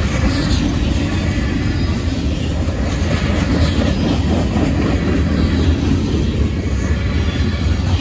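Freight train of tank cars and covered hoppers rolling past close by: a steady loud rumble of steel wheels on the rails, with a few faint clacks.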